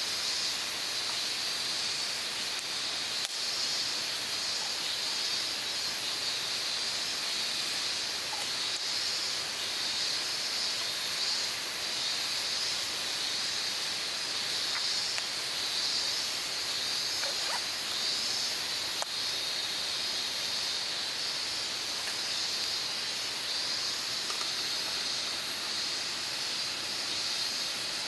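Steady outdoor ambience of insects buzzing, high and continuous, swelling and fading in waves over a steady hiss, with a few faint chirps.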